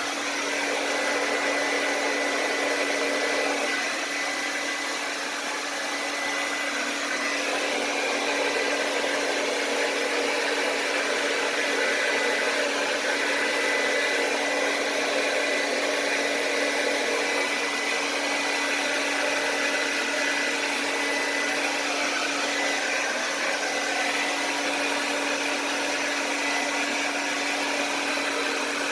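Hair dryer running steadily on one setting, blowing wet acrylic paint across a canvas in a pour painting.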